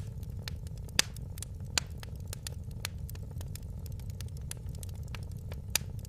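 Fireplace fire crackling: a steady low rumble of flames under many small sharp pops, with louder snaps about a second in, a little before two seconds, and near the end.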